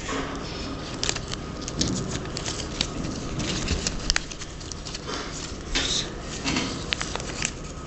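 Paper rustling and crinkling in the hands as flaps are folded to the centre and creased, with irregular sharp crackles and taps.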